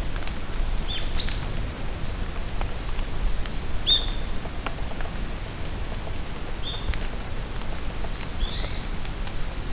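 Rain falling steadily in a forest with scattered drip ticks, and songbirds calling now and then over it: a quick rising whistle about a second in, short chirps near four, seven and eight seconds, and high thin trills twice.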